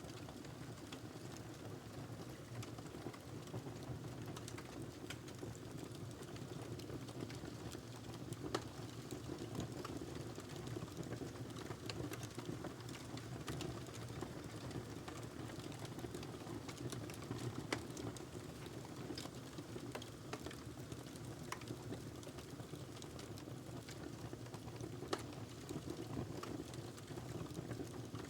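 Wood fire crackling in a fireplace: a steady low rumble of flames with many small scattered pops, and three louder snaps about nine, eighteen and twenty-five seconds in.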